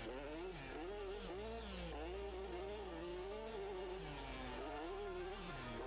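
Enduro motorcycle engine running, its pitch rising and falling over and over as the throttle is worked.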